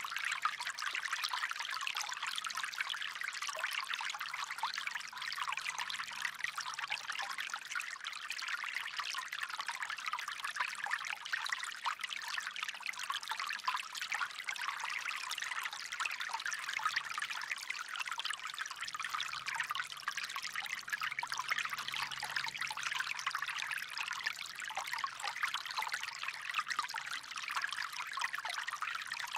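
Water flowing steadily in a light, splashy trickle, without letup.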